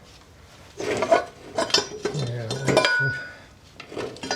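Metal knocks and clinks with short ringing as an exhaust manifold and turbocharger are handled and offered up against a Land Rover 200Tdi engine in a trial fit.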